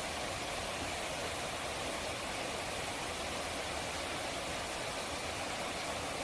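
Steady rushing of running water, an even wash of noise with no separate events.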